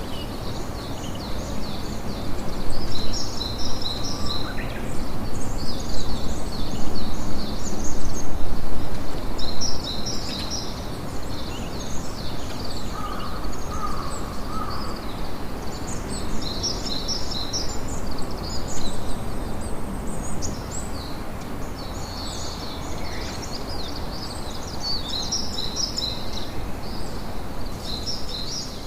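Campfire crackling steadily under many small birds chirping in quick high trills, with a short lower call about halfway through.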